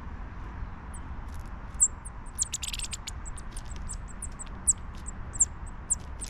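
Chipping sparrows giving short, high chip calls, scattered irregularly from about a second in, with a brief rattle of clicks partway through, over a steady low rumble.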